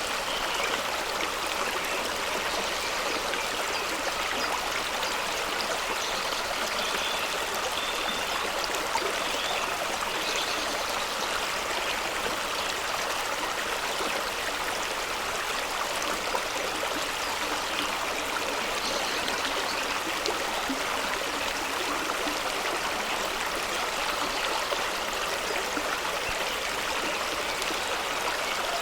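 Fast-running stream rushing and splashing over rocks, a steady unbroken water noise.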